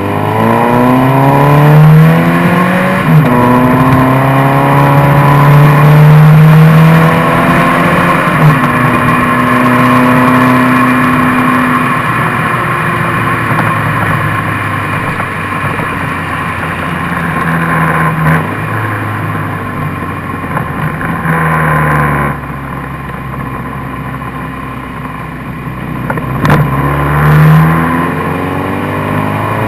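Subaru BRZ / Scion FR-S 2.0-litre flat-four engine's exhaust note through the muffler under test, pulling up in revs with a rising pitch and a quick drop about three seconds in, like a gear change. It climbs again and holds steady, eases off to a quieter, varying note, and rises once more near the end.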